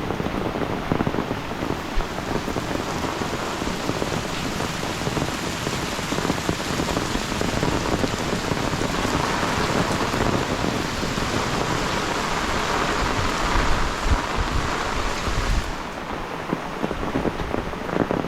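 Heavy monsoon rain falling steadily, with a low wind rumble underneath. The rain swells louder about halfway through, then eases slightly near the end.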